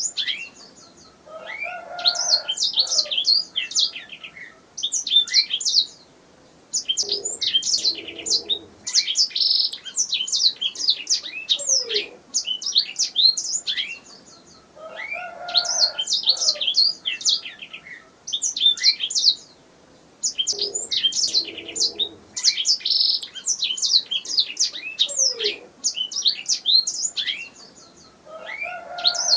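Domestic canary singing: long, fast, rolling phrases of high chirps and trills, broken by short pauses of about a second.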